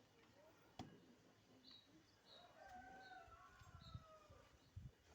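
Faint rooster crowing: one long held crow about halfway through, with a few faint high bird chirps and a single click about a second in.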